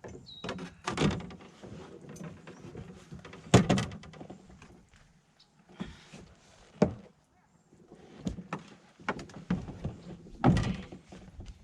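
Hollow knocks and thunks from a canoe bumping and shifting against a dock as people climb out, with scraping and rustling between. There are four main knocks, the loudest about three and a half seconds in.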